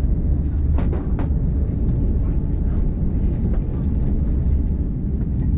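LNER Azuma train running at speed, heard inside the carriage as a steady low rumble. Two sharp clicks come about a second in.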